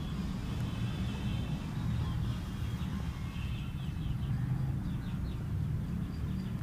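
Birds chirping in quick short notes, sparse at first and growing busier about halfway through, over a steady low rumble.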